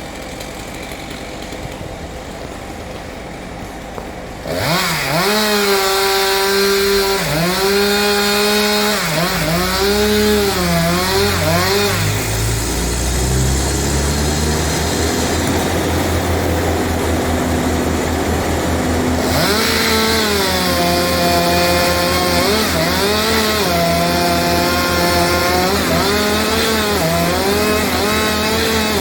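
A chainsaw idles. About four seconds in it opens to full throttle and cuts, its pitch dipping and recovering again and again as the chain bites into the wood. From about halfway a deeper engine revs up and runs steadily underneath.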